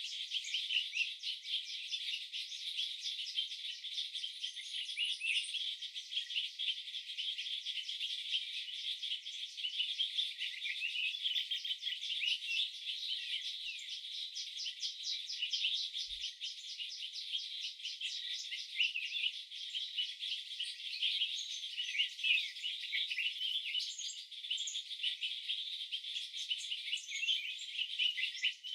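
Dense, high-pitched chorus of chirping insects pulsing rapidly, with short bird chirps mixed in.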